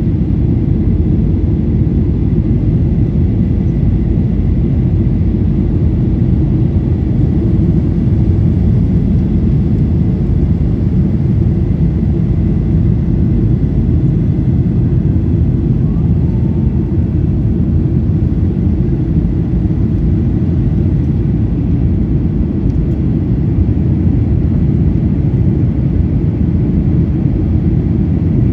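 Boeing 737-800's CFM56-7B turbofan engines and airflow heard from inside the cabin: a loud, steady low roar with a faint steady high whine above it.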